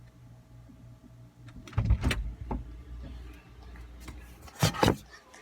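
A low steady hum with two sharp clusters of knocks and rattles, about two seconds in and near the end, like a refrigerator door or its shelves being handled.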